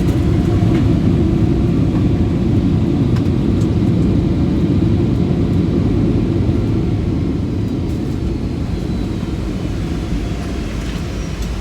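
Boeing 757 airliner cabin noise during landing: a loud, low engine and airflow roar that slowly eases over the last few seconds.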